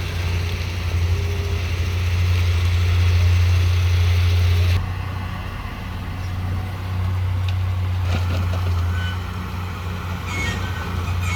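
Heavy diesel earthmoving machinery running steadily with a deep engine drone. The sound changes abruptly about five seconds in, and a few short knocks and brief high tones come in the second half.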